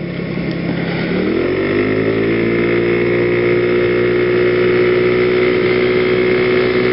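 Genuine Buddy 125cc scooter's single-cylinder four-stroke engine accelerating: the revs climb over the first couple of seconds and then hold steady at cruising speed.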